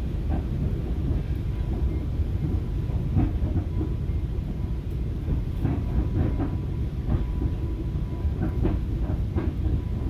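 Inside a moving FrontRunner commuter train coach: a steady low rumble of wheels on the track, with scattered clicks and knocks. A faint steady whine comes in about four seconds in.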